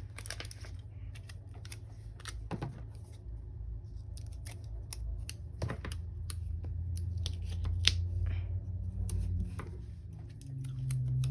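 Scattered sharp little clicks and crinkles of sticker sheets and paper being handled while stickers are peeled off and pressed onto a journal page, over a steady low room hum.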